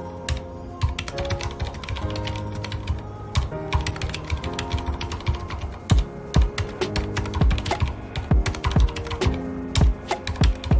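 Continuous typing on a mechanical keyboard with red (linear) switches, a dense run of key clicks, over soft background music with held notes.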